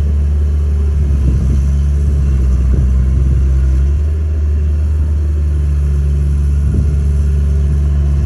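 Heavy diesel engine running steadily at low speed, a deep drone whose upper tone drops out briefly about four seconds in and then returns.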